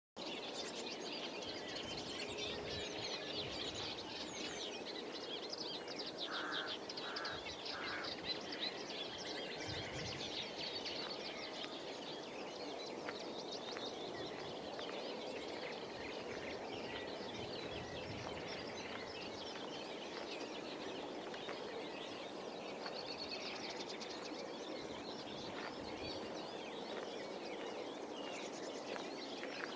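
Many birds singing and calling at once at ponds, a dense chorus of overlapping high chirps and trills, with three short lower-pitched calls about six and a half seconds in. A steady background noise runs underneath.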